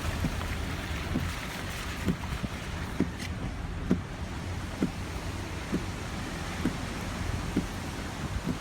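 Vehicle running at low speed, heard from inside, with a steady low rumble and hiss and a soft knock about once a second.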